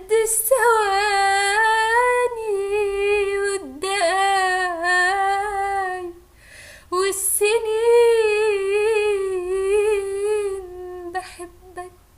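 A woman's voice humming the melody of an Arabic love song, unaccompanied. She sings three long phrases of held, wavering notes, with short breaks between them.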